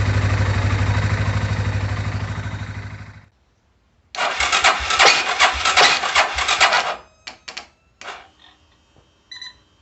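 Single-cylinder motorcycle engine running steadily, then dying away as it is switched off about three seconds in. After a short pause comes about three seconds of loud rough clattering noise, then a few sharp clicks.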